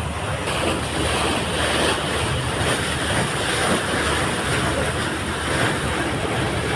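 Steady noise of a passenger ferry under way: a low engine drone under the rushing of water and wind.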